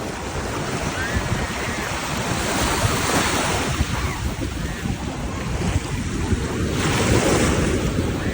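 Ocean surf washing up the beach, with wind buffeting the microphone. Waves surge louder twice, about three seconds in and again near the end.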